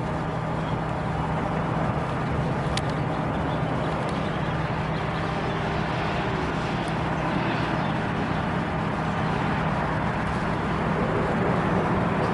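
Low-floor light rail train at a station platform: a steady mechanical hum and rumble, with a light click about three seconds in.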